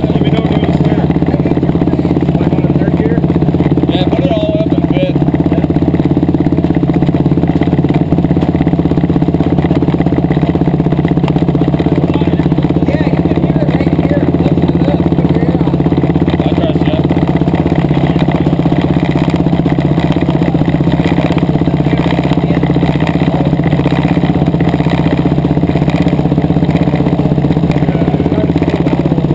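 Yamaha YFZ450 single-cylinder four-stroke engine running at a steady speed on an engine dyno test stand, with no revving.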